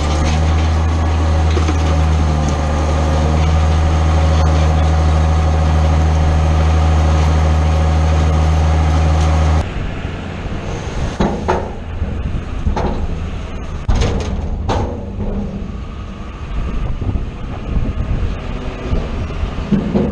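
Silage-making farm machinery: a large engine running steadily under heavy load. About halfway through it changes abruptly to quieter, uneven engine noise with several sharp knocks.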